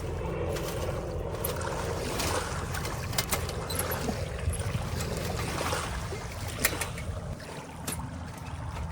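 Wind rumbling and buffeting on the microphone, with a few sharp clicks scattered through it.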